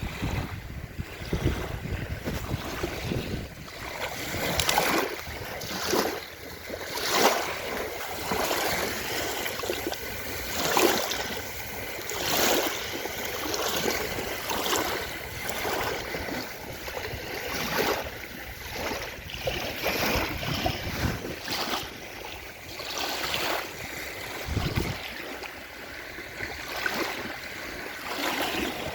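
Sea waves washing and splashing in repeated swells every second or two, with wind gusting on the microphone now and then.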